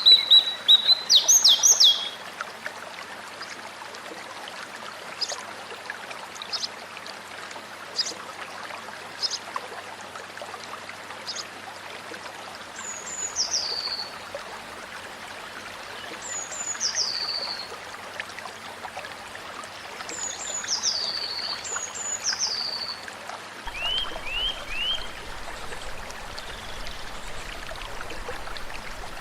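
White-rumped shama (murai batu) singing in short whistled phrases over steadily flowing water: a loud burst of notes in the first two seconds, then scattered short notes and several falling whistles.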